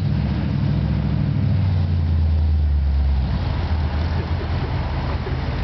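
Old cars driving slowly past in a line, their engines making a deep, steady rumble. The rumble is loudest from about half a second in to about three seconds in, as one car passes close.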